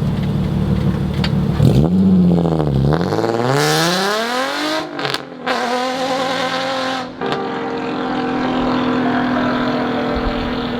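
Nissan 350Z HR's VQ35HR V6 through a Tomei titanium exhaust, loud, in one hard pull. The revs climb, break off briefly about five seconds in and climb again, then drop back about seven seconds in to a steady drone.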